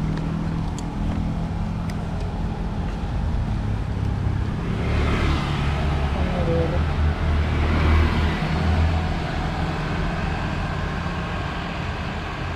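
Road traffic with a steady engine hum; a vehicle passes by, swelling louder from about five seconds in and fading after about nine.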